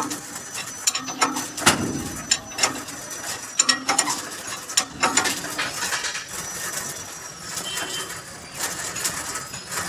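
Irregular metallic clicks and knocks of hand tools working on a truck cabin.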